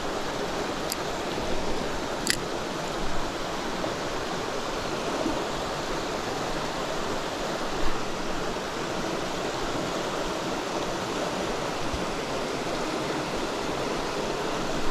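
Mountain stream water rushing steadily over rocks, an even hiss. Two brief high ticks in the first few seconds and a soft thump midway.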